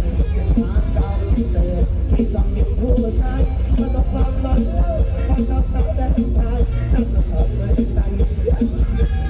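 Mor lam band music with a steady beat, heavy bass and a wavering melody line over it.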